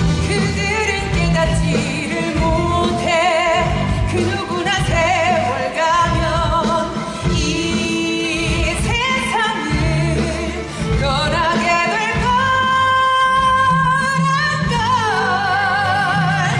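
Singing with band accompaniment: voices hold notes with a wide vibrato over a steady bass and drum beat. About eleven seconds in, a voice slides up to a long held high note and keeps it for a few seconds.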